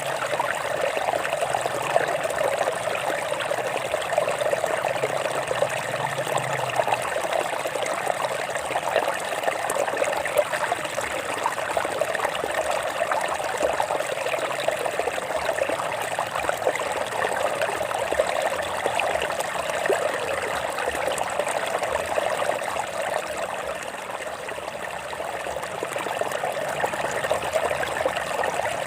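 Stream water trickling and babbling over rocks, a steady splashing that dips slightly about three-quarters of the way through.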